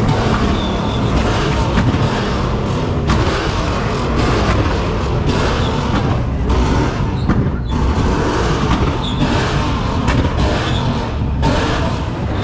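Car engines running, with a few sudden thumps.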